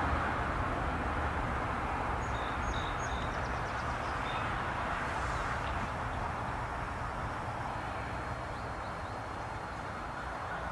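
Steady rumble of a passing train, slowly fading as it moves away. A few short bird chirps come about two to three seconds in.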